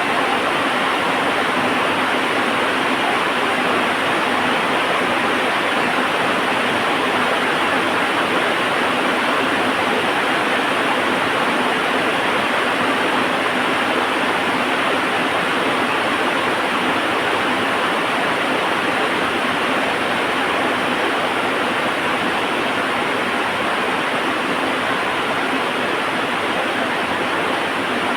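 Heavy rain falling steadily, an even, unbroken hiss with no thunder or crackle standing out.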